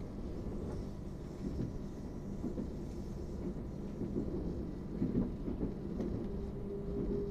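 Suburban passenger train running, heard from inside the carriage: a steady low rumble of wheels on the track with occasional knocks, and a steady hum coming in near the end.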